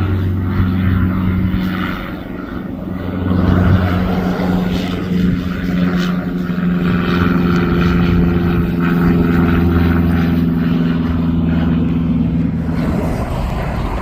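Aircraft engines running: a loud, steady drone of low tones that fades out near the end.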